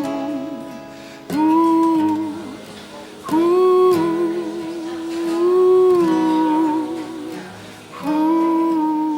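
A man humming long wordless notes with vibrato over a softly played acoustic guitar: three held phrases, the first starting about a second in and the last near the end.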